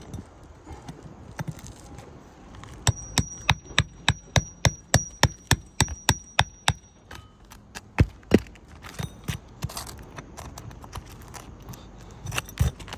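A hammer tapping a steel nail puller under a roofing nail in asphalt shingles. It gives a rapid run of about a dozen sharp metallic taps, roughly three a second, with a ringing tone for about four seconds. Two heavier blows follow about eight seconds in, then scattered lighter clicks.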